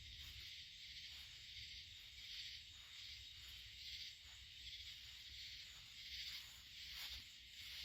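Faint outdoor ambience: a high hiss that swells and fades about once a second, over a low rumble.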